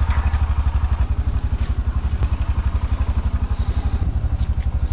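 Polaris Ranger UTV engine running steadily with an even, fast low pulse as the loaded vehicle drives, with a few light rattles and clicks from the load and rack.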